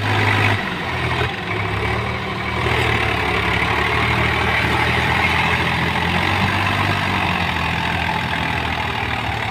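Tractor engine running steadily with a low hum and a dense mechanical rattle, slightly louder in the first half-second.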